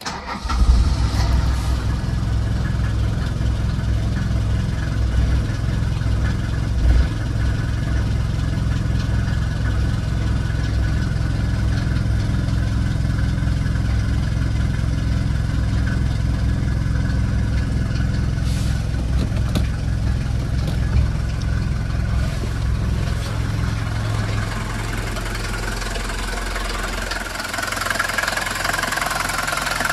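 Mercedes-Benz W123 200D's four-cylinder diesel engine idling cold after a winter layoff, with a steady diesel clatter. The note shifts near the end, its low hum easing as a higher rattle grows.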